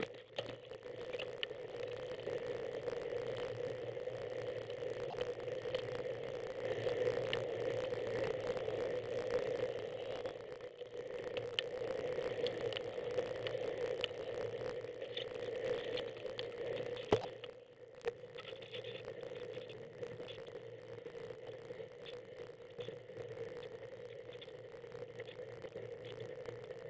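Steady riding noise of a bicycle on a snowy track, a constant hum with many small ticks and rattles, and one sharp knock about 17 seconds in.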